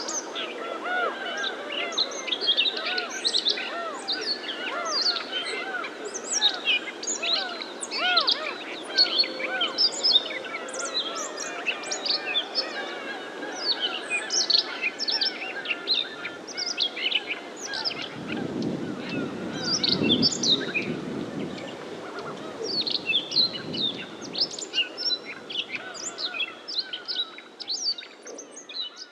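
Dense chorus of many birds calling at once: quick high chirps overlap with lower, arched honking calls. A low rumble rises and fades about two-thirds of the way through.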